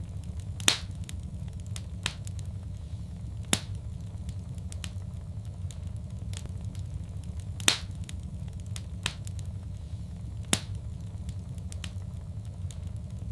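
Wood fire crackling: a steady low rumble with sharp pops and fainter ticks, the loudest pops about a second in and again about seven seconds later. The same pattern of pops repeats every seven seconds, a looped recording.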